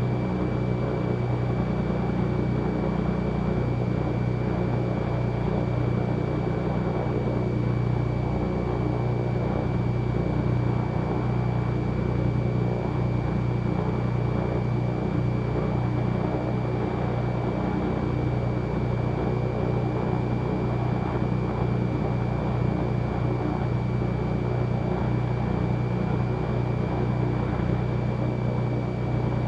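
Twin piston engines of a Cessna 310Q running steadily, heard from inside the cabin, with a thin steady high whine over the engine drone.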